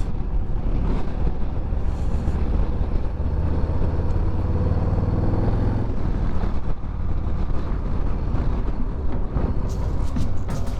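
A Harley-Davidson Street Bob 114's Milwaukee-Eight 114 V-twin running under way, its pitch rising for a few seconds as it pulls harder, under a heavy low rush of wind on the microphone.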